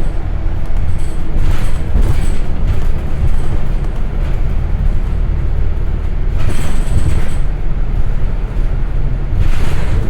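MBTA transit bus driving between stops, heard from inside the cabin: a steady low engine and road rumble, with a few brief swells of hissy noise.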